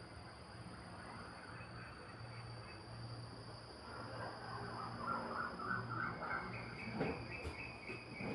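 Outdoor ambience with a steady high insect drone. From about halfway through, a small bird twitters in quick repeated notes. Two short knocks come near the end.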